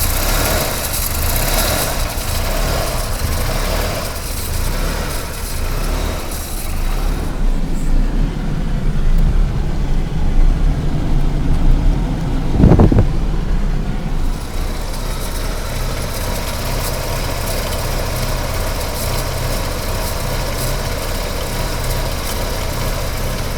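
Mazda RX-7 SA22C rotary engine idling with the air conditioning on, the idle hunting: the engine sound swells and dips unevenly, a sign of the idle failing to hold under the AC compressor's load. A brief low thump comes about halfway through, after which the idle runs steadier.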